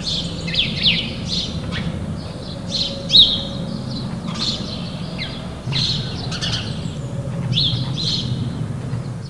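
Several birds chirping and singing, with many short, rapid notes and quick downward sweeps, over a steady low rumble of background noise.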